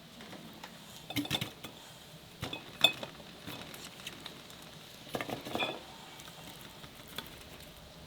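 Kitchen utensils and dishes clinking and knocking in three short bouts: about a second in, a single sharp knock near three seconds, and again a little after five seconds.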